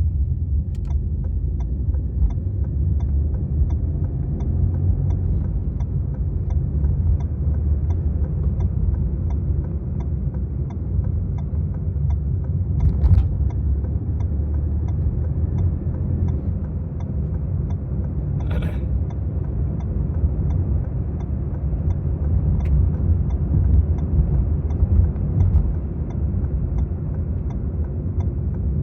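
Steady low road and engine rumble of a Maruti Suzuki Swift VXi being driven, with a brief sharper sound about two-thirds of the way in.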